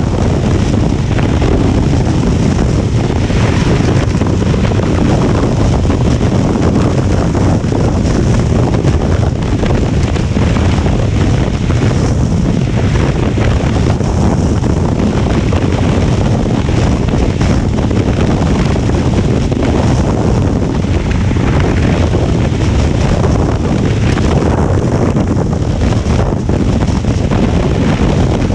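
Loud, steady wind noise buffeting the microphone of a 2023 Honda Transalp 750 motorcycle at riding speed in strong wind, a continuous rush heaviest in the low end.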